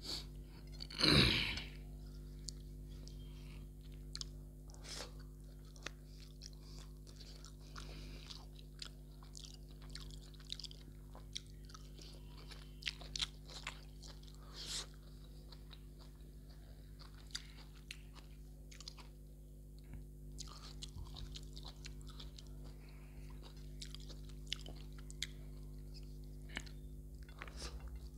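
Close-miked chewing of a mouthful of mutton curry and rice, with many short wet clicks and crunching bites and one louder mouth sound about a second in. A steady low hum runs underneath.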